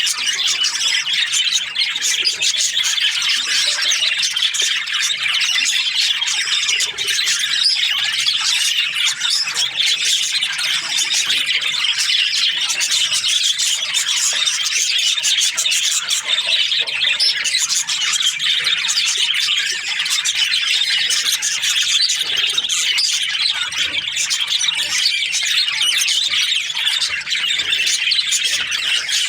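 A flock of budgerigars chirping and chattering without pause, many high calls overlapping.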